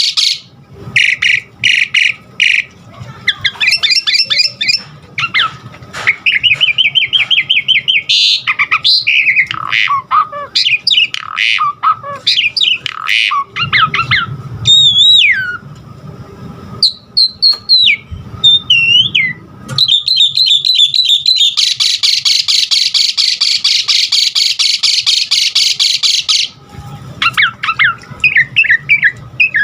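Asian pied starling (jalak suren) singing a long, varied song: harsh squawks and rapid chatter mixed with clear gliding whistles, with other birds' phrases mimicked in. Near the middle come several clean whistled glides. About two-thirds of the way through there is a dense run of chatter lasting several seconds.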